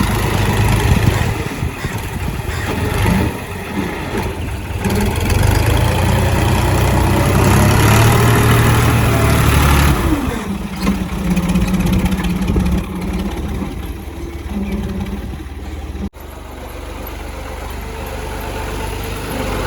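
A vehicle engine running steadily, its speed dropping about halfway through and settling to a steadier, lower note.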